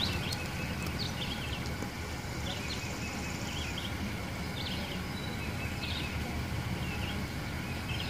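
Outdoor ambience of birds chirping now and then, short calls scattered throughout, over a steady low rumble.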